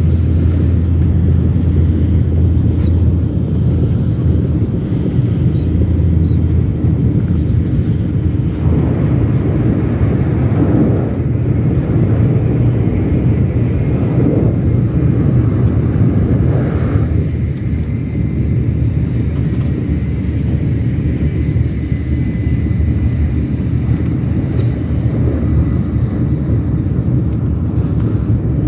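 Steady low rumble of a moving vehicle, with a rushing noise that swells and fades between about 8 and 17 seconds in.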